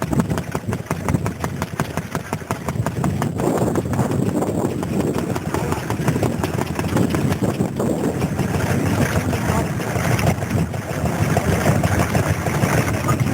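Vintage stationary engine running with a fast, even exhaust beat, which after about three seconds is masked by a louder, more even mix of noise.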